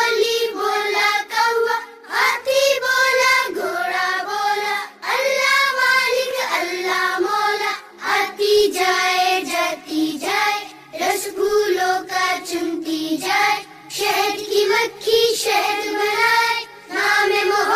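A children's song: a high, child-like voice singing phrase after phrase over a musical backing.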